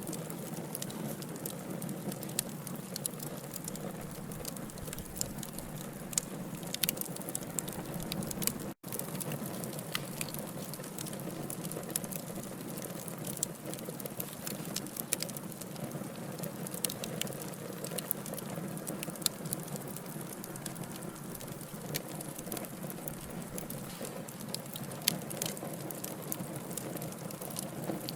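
Burning wood logs crackling and popping irregularly over a steady hiss of flames. The sound cuts out for an instant about nine seconds in.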